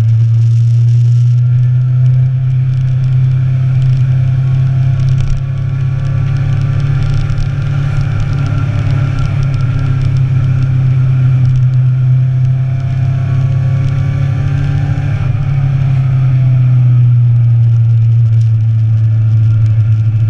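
Motorcycle engine running steadily while riding, a loud constant drone whose pitch drops a little about three-quarters of the way through.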